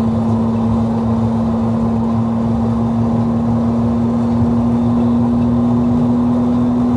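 Infiniti G35's V6 engine and loud exhaust droning at one steady pitch under a haze of road noise, held at constant revs as the car cruises.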